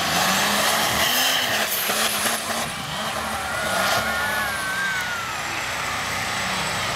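Monster truck engine running loud and revving up and down.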